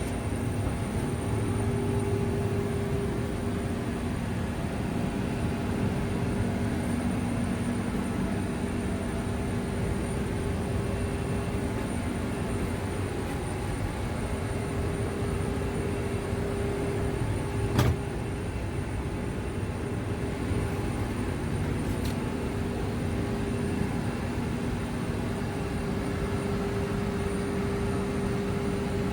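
Steady cabin noise inside an Airbus A319 airliner: an even rushing drone with a steady hum under it, and one sharp click about eighteen seconds in.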